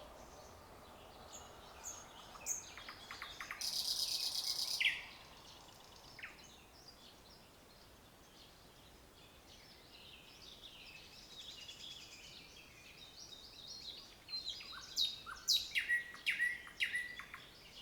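Several songbirds singing in a forest, with a dense buzzing trill about four seconds in and a run of loud, sharp chirping notes near the end. A faint murmur of running water fades out in the first couple of seconds.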